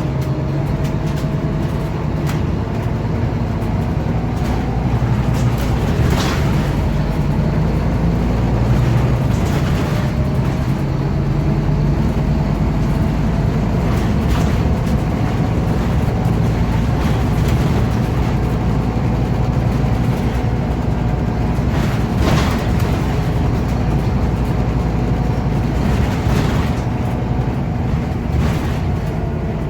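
Scania OmniCity city bus heard from inside while driving: a steady low rumble from the diesel engine and road, with a faint whine that rises and falls gently. Now and then a short knock or rattle, about five in all.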